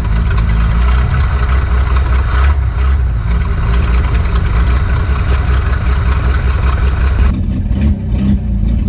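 1952 Dodge Meadowbrook's flathead straight-six running steadily, just fired up after sitting for years, heard up close in the open engine bay. About seven seconds in it turns duller and more muffled, as heard from inside the car's cabin.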